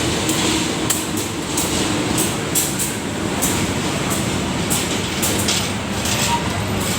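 Train running on the track, a steady rumble with irregular sharp clicks and clacks.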